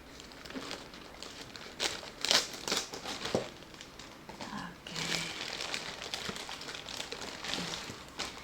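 Packaging being unwrapped and handled: irregular crinkling and rustling, with a few sharper clicks around two to three seconds in.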